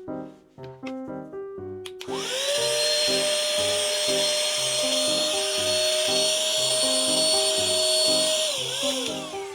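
Mini cordless vacuum cleaner's small motor spinning up about two seconds in, running with a steady high whine and airy hiss, then winding down near the end. Background music with a steady beat plays throughout.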